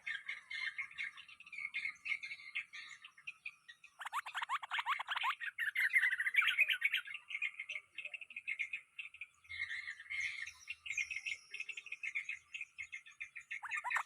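Bulbuls chirping and chattering in a busy run of short notes. There is a burst of rapid falling calls about four seconds in and another near the end, over a faint steady insect drone.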